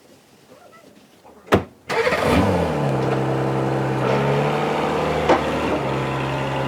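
Car engine cranking and catching with a sharp burst about a second and a half in, revving briefly, then settling into a steady idle.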